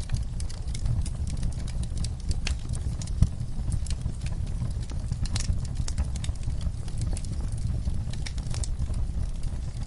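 Fireplace crackling with irregular sharp pops over a steady low rumble of rain. One pop about three seconds in is louder than the rest.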